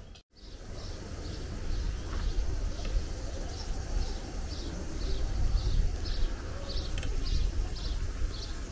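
A bird chirping over and over, short high chirps about two a second, over a low uneven rumble.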